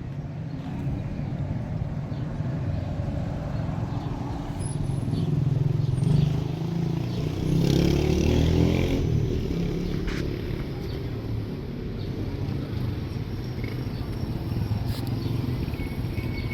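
A motor vehicle engine running steadily, swelling louder for a few seconds around the middle and then easing off.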